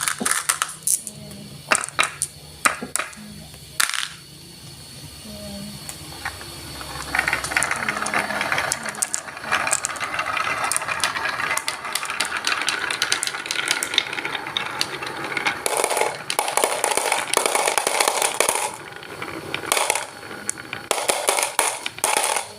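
Marbles clicking and rattling along a toy marble run: scattered sharp clicks at first, then from about seven seconds in a long, dense clatter of many marbles rolling and knocking, loudest in two stretches near the end.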